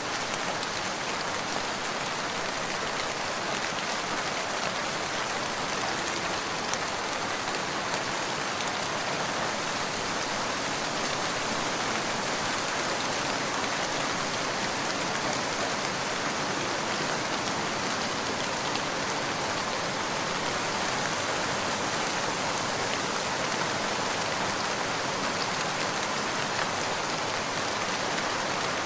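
Steady rain falling, an even hiss with fine drop patter, unchanging throughout.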